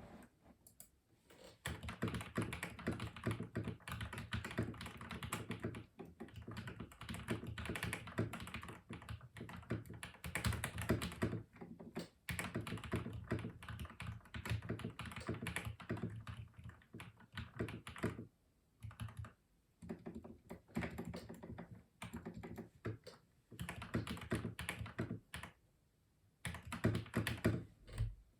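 Custom mechanical keyboard being typed on: fast runs of key clacks broken by a few short pauses.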